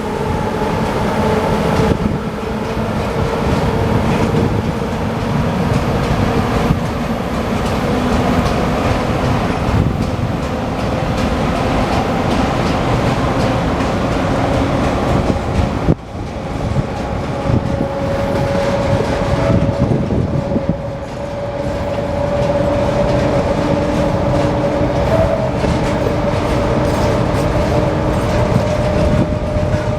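Container wagons of a freight train rolling past with steady wheel clatter on the rails. From about seventeen seconds in, a thin, steady squeal comes in as the train brakes to a stop.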